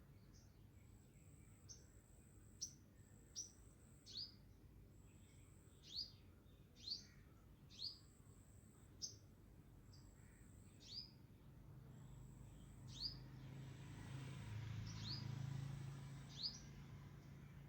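A bird calling repeatedly: short, high chirps that slide down in pitch, about one a second, over a faint low hum that grows louder near the end.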